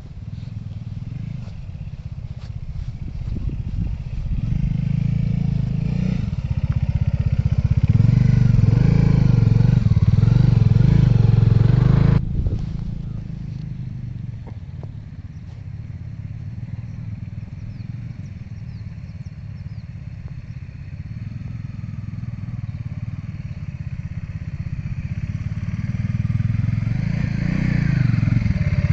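Bajaj Dominar 400 motorcycle's single-cylinder engine running under way. The engine grows louder over the first several seconds, drops off suddenly about twelve seconds in, and then builds again toward the end.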